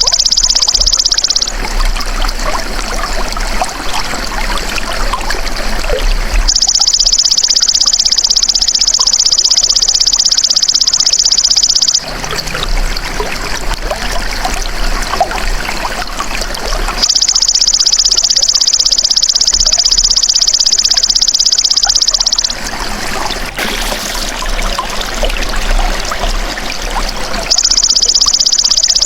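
Belalang emas insect calling in a steady, high buzz that comes in bouts of about five seconds, separated by gaps of similar length. In the gaps a trickle of running water is heard.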